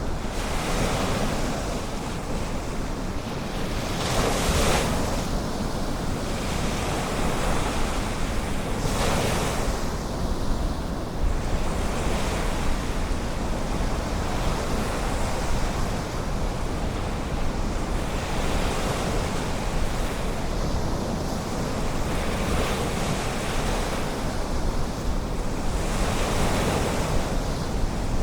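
Ocean surf: a steady wash of waves breaking on the shore, with louder surges of breaking waves every few seconds.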